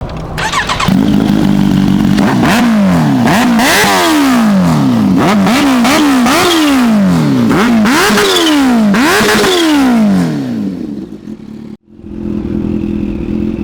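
Kawasaki H2 motorcycle engine idling steadily, then revved in a rapid series of throttle blips, each rising and falling in pitch. Near the end the revving dies away, there is a brief break, and it settles back to a steady idle.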